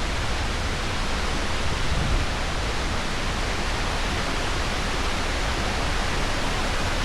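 Steady rushing noise of wind and water on a small open boat, with low buffeting from wind on the microphone.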